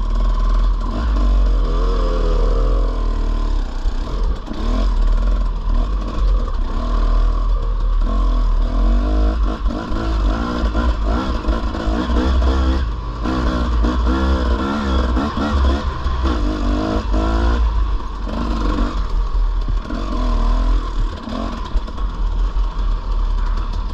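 Dirt bike engine revving up and down repeatedly as the bike is ridden along a trail.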